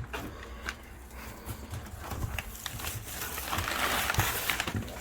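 Exhaust parts and packing material being handled in a cardboard box: scattered knocks and clicks, with rustling that grows louder in the second half.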